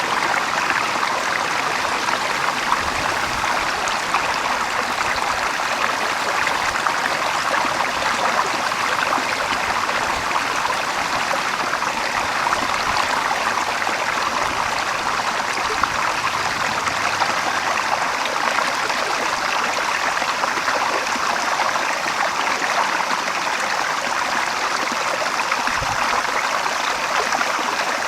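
Running water of a small stream, flowing at a steady level.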